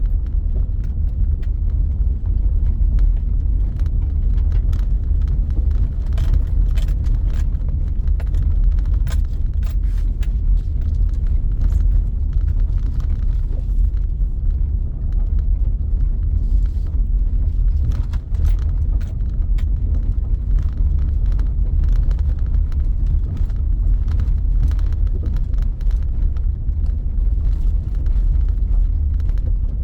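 A car on the move: a steady low rumble of engine and road noise, with scattered light clicks and knocks over it.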